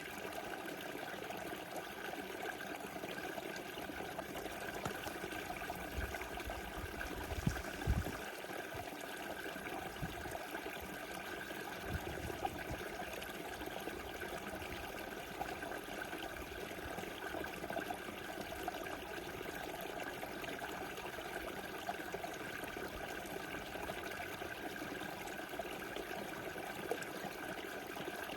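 A small river rushing steadily, an even flowing-water noise. A few brief low thumps break in around a quarter of the way through, the loudest pair about eight seconds in.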